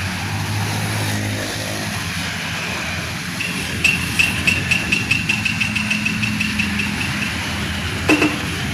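Vehicle engine running steadily. From about four seconds in, a high-pitched ringing pulses rapidly, about four times a second, for roughly three seconds.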